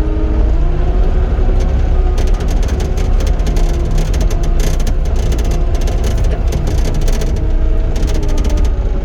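Cat 259D compact track loader's diesel engine running steadily under load while back-dragging the ground, with clicking and rattling from the machine's tracks and linkage from about two seconds in.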